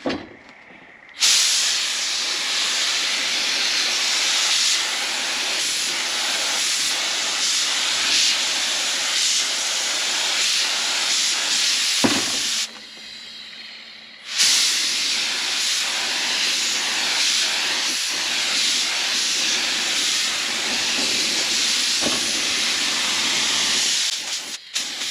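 A loud, steady hiss that starts about a second in, cuts out for about a second and a half midway, then resumes and stops near the end. A single sharp click comes just before the break.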